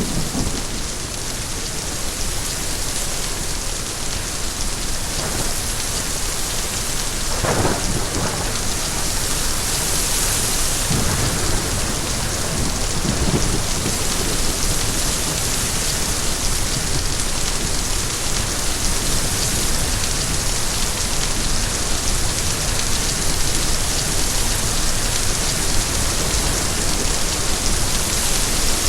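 Steady heavy rain, with a low rumble of thunder about a third of the way in and another a few seconds later.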